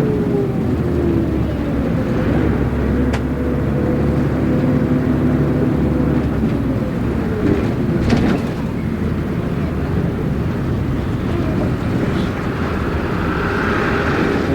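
Inside a city route bus underway: the diesel engine runs under the cabin rumble, its pitch sagging and then picking up again about halfway through as the bus changes speed. There are a couple of sharp clicks or rattles.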